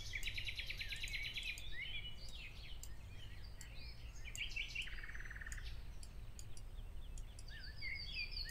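Birds chirping in the background, with quick rising and falling calls and two rapid trills, one near the start and one about five seconds in, over a low steady hum.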